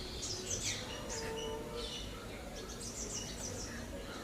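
Birds chirping: short high chirps repeated in small clusters over a steady low background noise.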